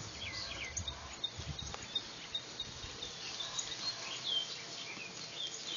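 Songbirds chirping in the background: many short, high calls scattered throughout, over outdoor noise with a low rumble for the first couple of seconds.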